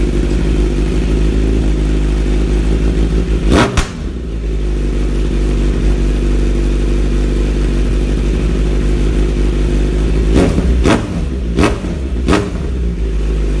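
Kawasaki Z900 inline-four on an Akrapovic full-system exhaust, idling steadily and blipped once about three seconds in, then four quick throttle blips near the end, each rev climbing and falling straight back to idle.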